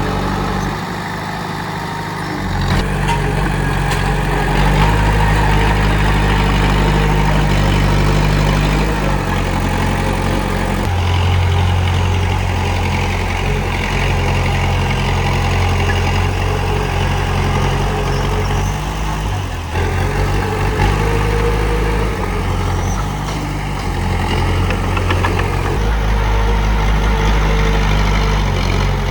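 Komatsu D31P bulldozer's diesel engine running, its low note shifting in level and pitch every few seconds as it works.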